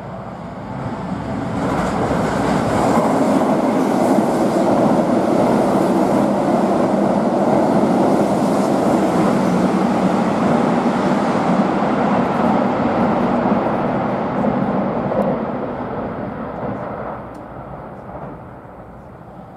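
Keihan electric train running through the station: the rumble of wheels on rail swells about a second in, holds steady for some twelve seconds, then fades away near the end.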